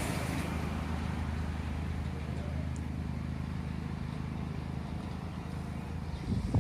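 Scania multi-axle coach's diesel engine running with a steady low drone, with a brief knock near the end.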